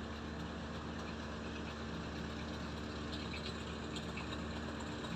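A boat engine running steadily with a constant low hum, over an even wash of water noise.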